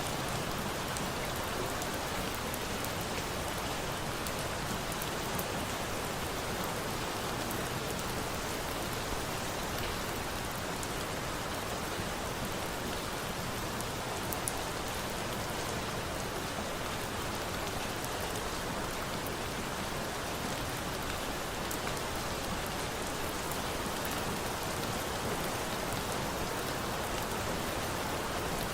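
Steady rain falling, an even hiss with a few faint ticks of drops here and there.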